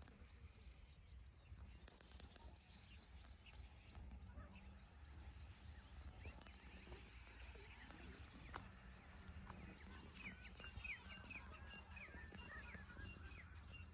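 Near silence: faint open-air ambience with a low rumble, and a run of faint, quick bird chirps in the second half.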